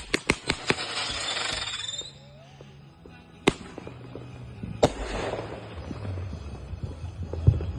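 Consumer fireworks going off: a quick string of sharp bangs, then a hissing crackle for about a second. Single loud bangs follow about three and a half and five seconds in, the second trailed by more crackle, and a heavy low thump comes near the end.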